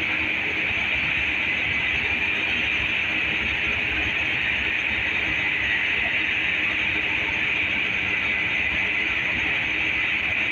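Tractor engine running steadily: a loud, continuous, even mechanical noise that does not change.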